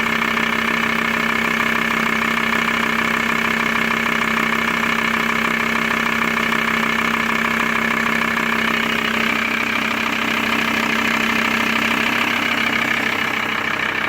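Volkswagen T4's ACV 2.5 TDI five-cylinder diesel engine idling steadily; its tone shifts slightly about nine to twelve seconds in.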